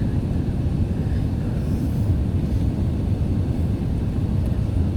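Steady low rumble of an Airbus A380 airliner heard from inside the passenger cabin: engine and airflow noise.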